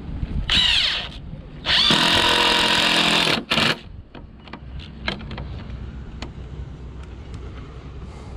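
Power drill driving screws into wood: a short spin-up and wind-down about half a second in, then a longer steady run of about a second and a half and a brief final burst, followed by a few light clicks.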